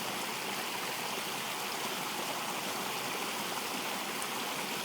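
Running water: a stream flowing, as one steady, even rush.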